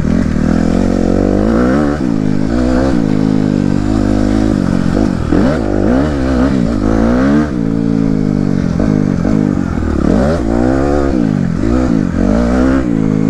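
Dirt bike engine under way on a trail, its pitch rising and falling again and again as the throttle is opened and closed.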